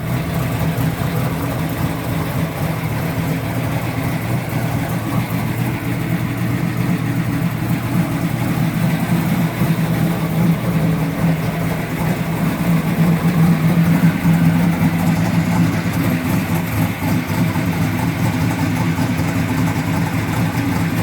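Oldsmobile engine in a 1982 Buick Regal idling steadily.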